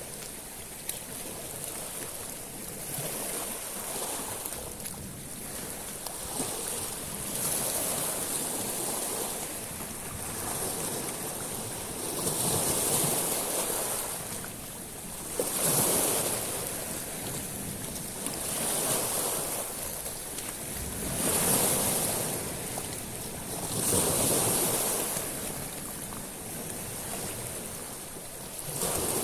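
Sea waves breaking on a pebble beach, each swell washing up and hissing over the small stones, coming and going every few seconds. Wind is on the microphone.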